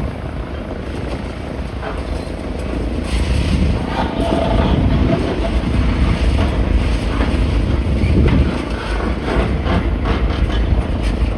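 Motor vehicle engine noise: a steady low rumble that grows louder about three seconds in and stays up.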